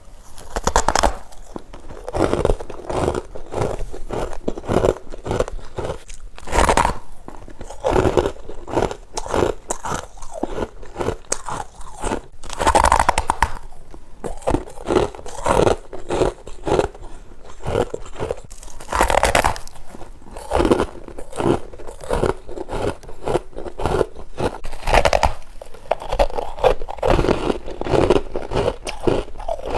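A person chewing and crunching freezer frost grown with a humidifier: a continuous run of crisp crunches, with a louder bite about every six seconds.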